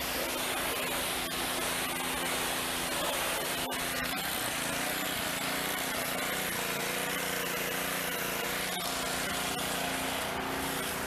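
A small motor running steadily under a loud hiss, its hum shifting to a new pitch about four seconds in, with a sharp click just before.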